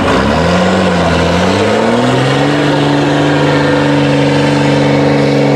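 Iveco trial truck's diesel engine revving up, its pitch climbing in two steps over the first couple of seconds and then held at high, steady revs.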